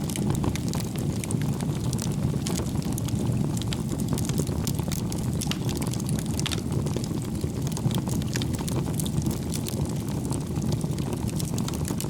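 Wood fire burning in a fireplace: an irregular run of small crackles and pops from the burning logs over a steady low rush of the flames.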